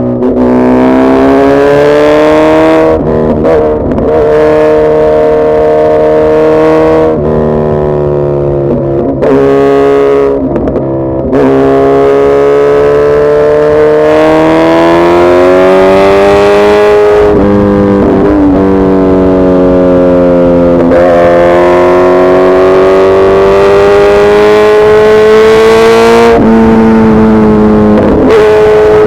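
Suzuki Hayabusa's inline-four engine running hard under way. Its pitch climbs gradually, then breaks off and drops at each gear change, several times over.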